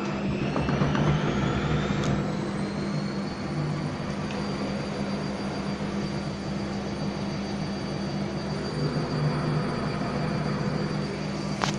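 Gorenje WA50060 washing machine running: a motor whine rises over the first two to three seconds and then holds steady over a constant low hum, with a click near the end.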